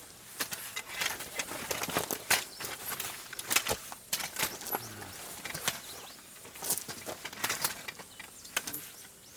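Raindrops tapping and dripping at an irregular, uneven pace, a scatter of sharp little ticks over a faint hiss.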